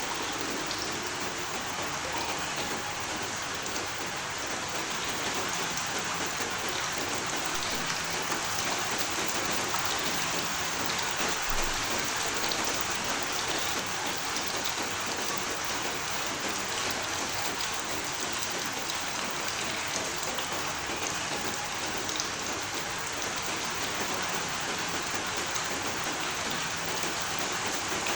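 Steady rain falling on a surface: a dense, even hiss with faint scattered ticks of individual drops.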